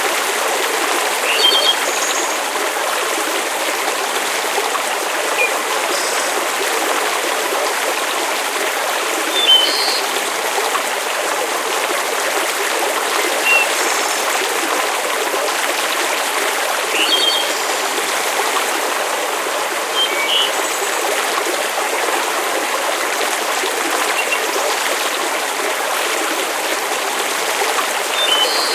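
Steady rushing water, a stream-like wash of noise, with short high chirps every few seconds.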